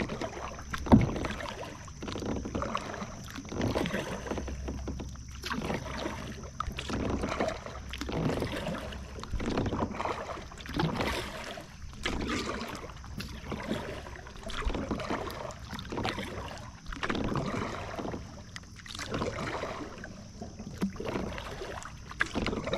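Kayak paddle strokes dipping and splashing in calm water, roughly one every second and a half, with a sharp knock about a second in.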